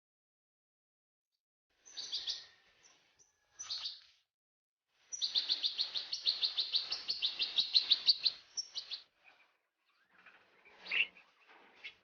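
European goldfinch singing: two short bursts of chirps, then from about five seconds in a fast twittering run of rapidly repeated high notes lasting nearly four seconds, with a few scattered calls near the end.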